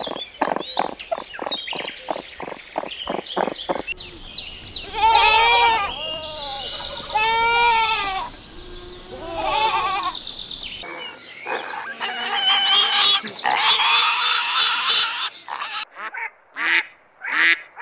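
A sequence of animal calls. First comes a rapid run of short chittering calls from young raccoons, about four a second. A goat kid then bleats three times in long calls that rise and fall in pitch, followed by a dense stretch of overlapping calls. Near the end, mallard ducks quack in short separate quacks.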